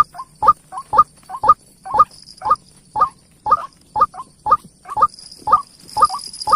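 A bird calling over and over, short rising notes, sometimes doubled, repeated evenly about twice a second. A steady high-pitched buzz runs underneath.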